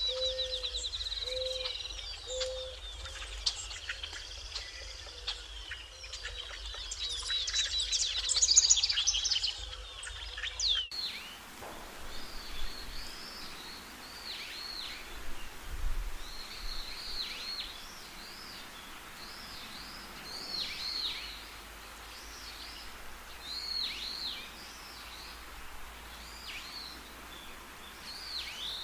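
Birdsong ambience: many varied bird chirps for about the first eleven seconds. It then switches abruptly to a different bed, where a bird repeats a short falling chirp roughly once a second over a steady hiss.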